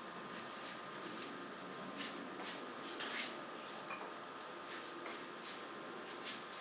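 Paintbrush strokes on a painting surface: a series of short, soft scratchy strokes at an uneven pace, the loudest about three seconds in, over a steady background hiss.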